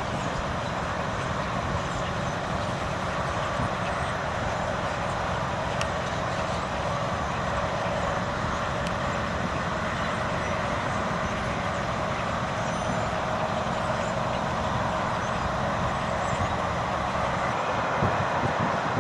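Steady, dense din of a large swallow flock's massed chatter mixed with city traffic running underneath.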